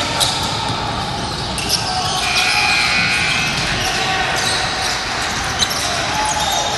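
Basketball game play in a gym hall: the ball bouncing on the hardwood floor and short sharp sneaker squeaks over steady echoing hall noise with voices, and a held high squeak a little over two seconds in.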